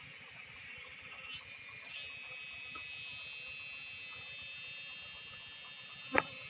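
Cicadas singing in a high, steady, shrill buzz that swells louder a second or two in. A single sharp click near the end.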